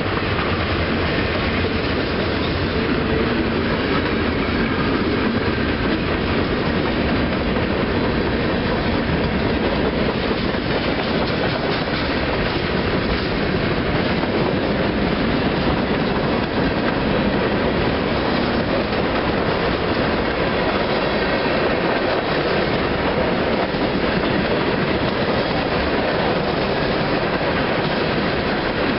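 Freight train cars rolling past: boxcars, a centre-beam flatcar and tank cars, with steady wheel-on-rail noise that holds at a constant loudness throughout.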